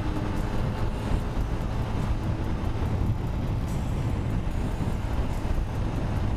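Yamaha LC135 motorcycle's single-cylinder engine running steadily on the move, mixed with road and wind noise.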